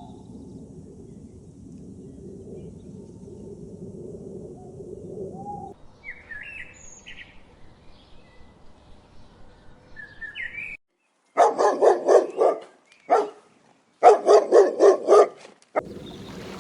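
Bird calls: a few faint chirps, then two loud bursts of rapidly repeated calls, each about a second and a half long.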